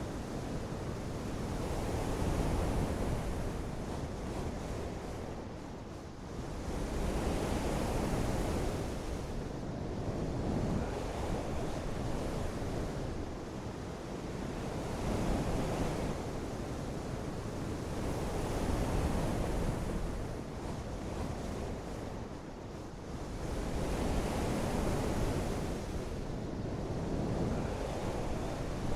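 Rain falling steadily, a dense hiss that swells and eases every few seconds.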